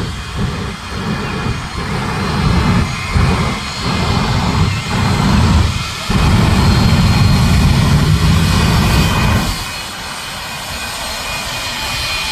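Jet truck's jet engine running loud, in uneven surges for several seconds, then one sustained blast that cuts back sharply about nine and a half seconds in.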